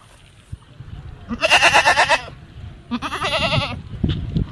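Goat bleating twice, the second call quavering.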